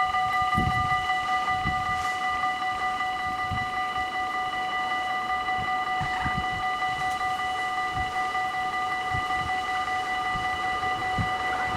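Dutch level-crossing warning bells ringing steadily while the crossing is closed for an approaching train, with occasional low thumps. Near the end a rising rush of the approaching train begins.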